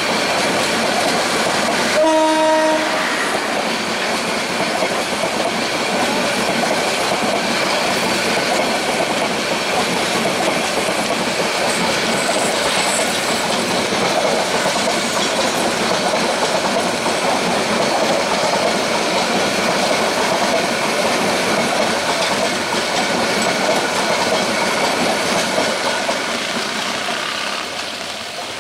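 Passenger coaches of an intercity express train rolling past close by, wheels clattering steadily on the rails. A train horn sounds once, briefly, about two seconds in. The clatter fades near the end as the last coach draws away.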